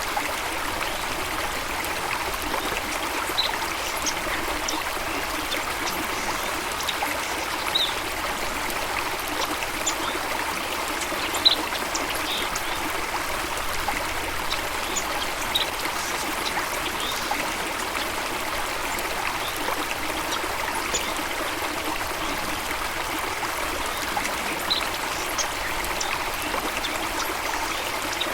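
Steady running water, with brief high bird chirps scattered through it.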